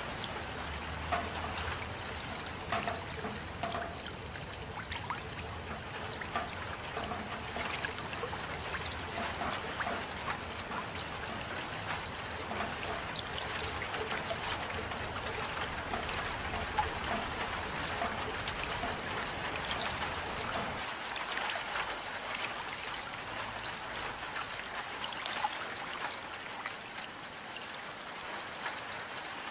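Steady rain, with many separate drops falling and water trickling. A low background sound underneath drops away about two-thirds of the way through.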